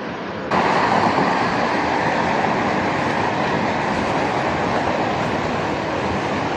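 Wind rushing over the microphone with road and tyre noise while riding an electric unicycle at speed, getting louder about half a second in.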